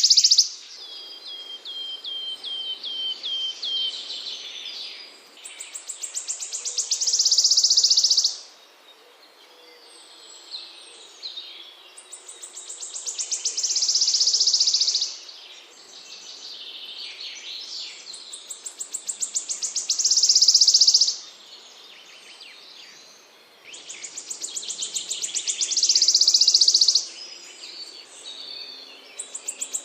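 Recorded small songbird song: rapid, high trills that build in loudness over about two seconds and end abruptly, repeating roughly every six seconds. About a second in, a run of about eight short, falling chirps; softer twittering fills the gaps.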